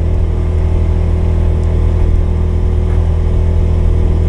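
Polaris 570's single-cylinder engine running at a steady speed: a constant low drone.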